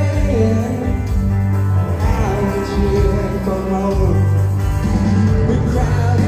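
Live country-rock band music with guitar, a bass line that changes note every couple of seconds, and a lead voice singing over it.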